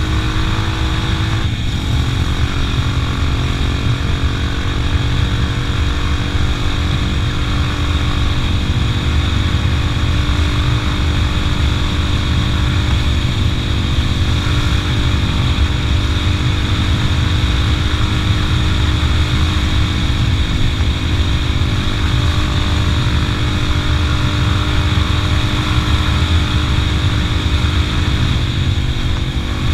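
Motorcycle engine running at a steady speed while riding, with heavy wind rumble on the microphone; its note drops slightly about a second and a half in.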